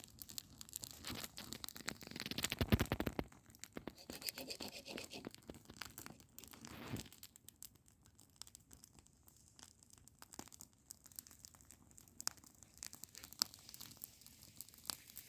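Campfire crackling, with many irregular sharp pops, and a louder rustling burst about two to three seconds in.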